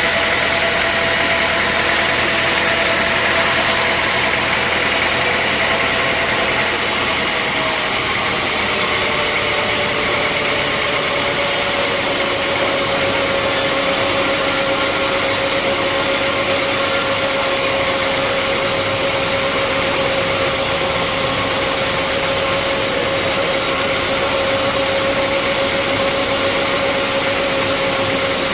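Sawmill machinery running steadily, with a whine that drops slightly in pitch about eight seconds in.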